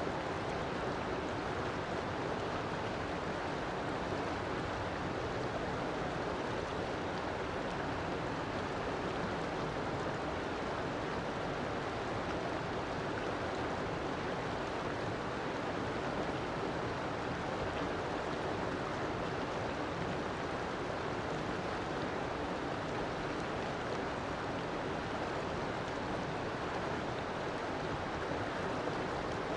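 River water flowing, a steady, unbroken sound with no change in level.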